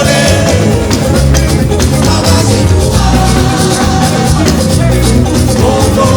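Church choir singing an anthem over a loud band with a strong bass line and drums.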